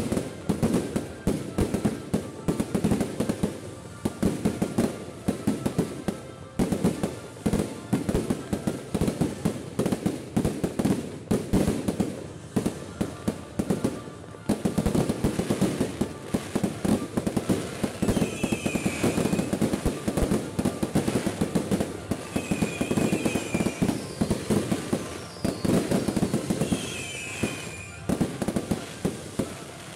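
Aerial fireworks display: a dense, continuous barrage of shell bursts, bangs and crackles. In the second half, short high whistling notes come back every few seconds.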